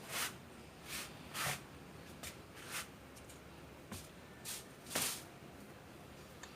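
A series of short swishing strokes, about eight spread unevenly over six seconds, made while cleaning out the dirty inside of an egg incubator.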